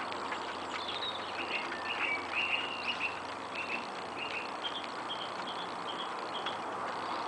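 Bird chirping: a long run of short, high chirps, about three a second, over a steady background hiss.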